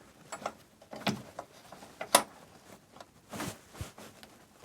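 Several separate metallic clicks and knocks of hand work on the gearbox mounting: bolts, a rubber block and its plate being handled and fitted, the sharpest knock about two seconds in.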